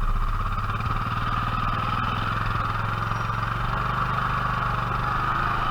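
Engines running steadily, from the farm tractor and the 450 ATV, while the tractor tows the ATV out of deep mud.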